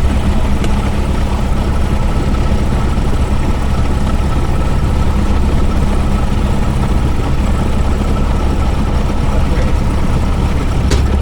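Cessna 172S's four-cylinder Lycoming engine and propeller idling steadily just after start, heard inside the cockpit as a loud, even drone.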